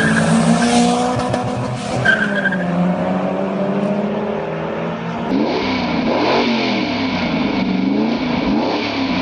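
Ford Capri Perana's Windsor V8 engine running hard, with the tyres squealing briefly a couple of times. About five seconds in there is a cut to the V8 being revved up and down several times.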